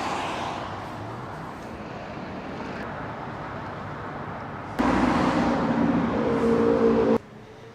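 Car and road noise, then a louder car engine with a steady pitch that starts abruptly about five seconds in and cuts off suddenly about two seconds later.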